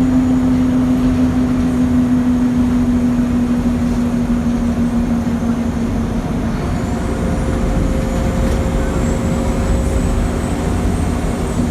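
Scania L94IB bus with a ZF 5HP500 automatic gearbox, heard on board while driving: a heavy diesel and road rumble with a steady whine that drifts slowly lower in pitch. A second, higher whine joins about two thirds of the way through.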